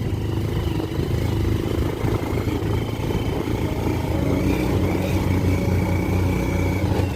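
Single-cylinder engine of a Bajaj Pulsar 150 motorcycle running steadily as it is ridden up a rough mountain road.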